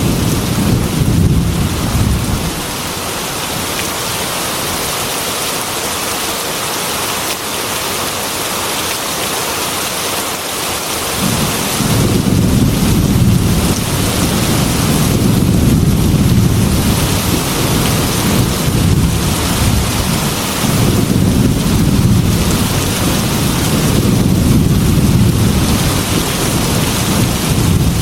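Heavy rain falling steadily on a glass window, with thunder rumbling low: the rumble fades out about two seconds in, then rolls back in near the middle and goes on in slow swells.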